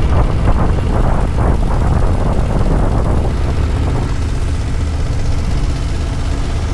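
Motorcycle engine running with wind noise, a loud low rumble that is rougher for the first three seconds and then steadier.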